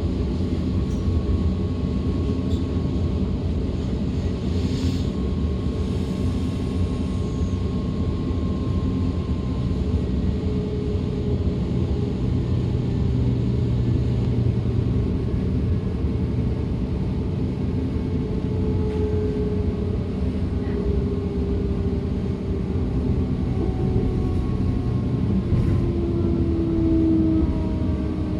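Interior ride noise of a DB class 425 electric multiple unit: a steady rumble of wheels on rail with the thin whine of the traction drive over it. Near the end the whine glides down in pitch as the train slows.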